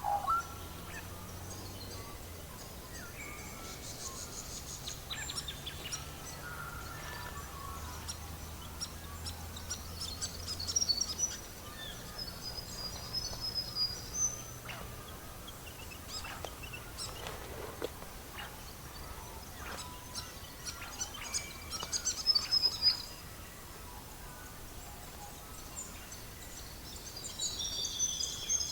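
Birds chirping and trilling in short scattered phrases over a crackling wood fire's sparse pops and snaps.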